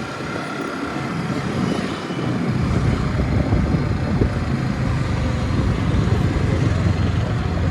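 Motorcycle on the move: engine and road noise with wind buffeting the helmet-mounted phone's microphone, growing heavier and louder about two and a half seconds in.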